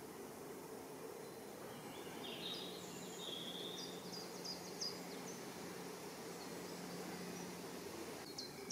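Faint woodland ambience: small birds give short high chirps between about two and five seconds in, over a steady low hum that fades near the end.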